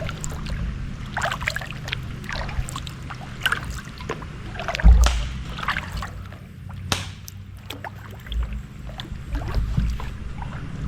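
Kayak paddling on a creek: paddle blades dip and splash, water drips and knocks off them, and a louder low thump comes about five seconds in.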